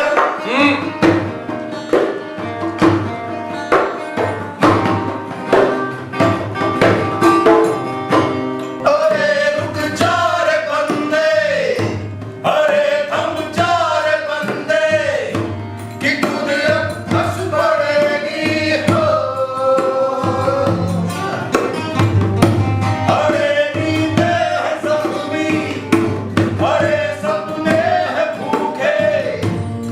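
A band playing a song: rhythmic drumming and instruments, with a sung vocal line coming in about nine seconds in.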